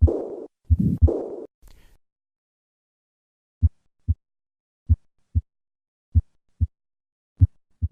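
Recorded heart sounds heard through a stethoscope. For the first second and a half, loud beats each trail a blowing murmur: the end of a severe aortic regurgitation sample. After a pause of about two seconds come clean, slow lub-dub pairs with no murmur, four pairs a little over a second apart.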